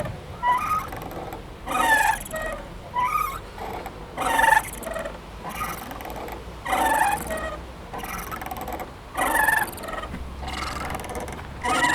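Playground swing squeaking rhythmically as it swings back and forth. A louder squeak comes about every two and a half seconds, with a fainter one on each return stroke.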